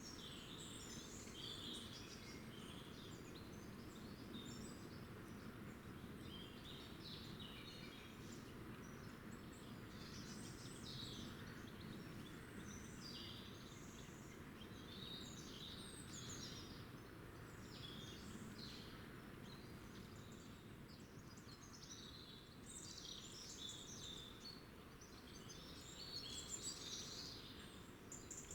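Small birds chirping and twittering in many short calls, faint over a steady low background hiss.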